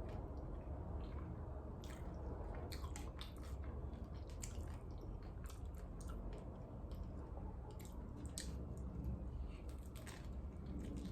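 Close-miked eating sounds of birria tacos: wet squishing and many sharp little mouth and food clicks, over a steady low hum.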